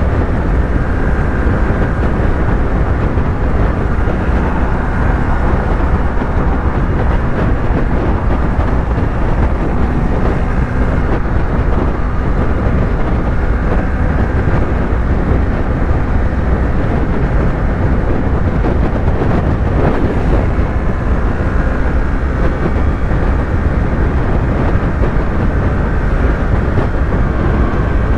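Yamaha YZF-R3's 321 cc parallel-twin engine running at a steady highway cruise under a dense rush of wind and road noise, with no change in revs.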